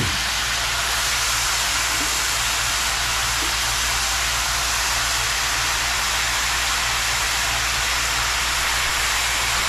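Steady hiss of seasoned chicken sizzling in a large pot over high heat, even and unbroken throughout.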